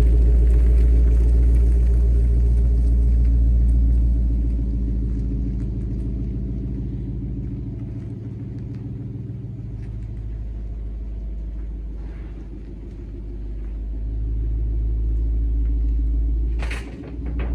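Lexus LS460's V8 idling through an AIMGAIN stainless loop muffler with its variable valve fully open: a steady, deep exhaust rumble. It eases off somewhat, grows louder again later on, and a brief sharp noise comes just before the end.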